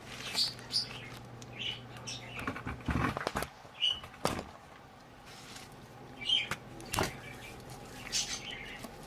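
Pet bird chirping in short scattered calls, with a few sharp clicks in between.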